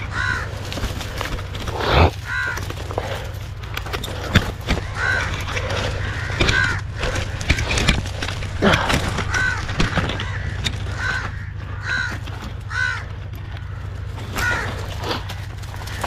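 A bird calling again and again, short caw-like calls every one to two seconds, over the crackle of dry thorny branches being pushed through by hand.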